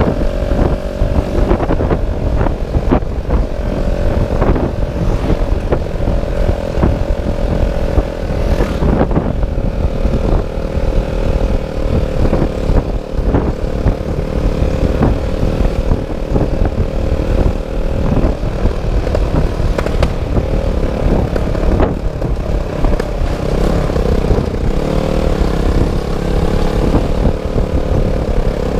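Motorcycle engine running at a steady cruising pitch, with heavy wind buffeting and rumble on the microphone and frequent small knocks. The engine note wavers a little in the second half.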